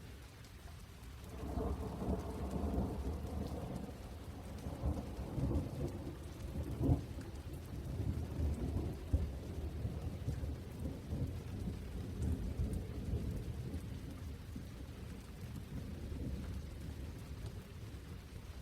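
Rain falling steadily while a long roll of thunder builds about a second and a half in, rumbles on with a couple of sharper cracks, and slowly fades away.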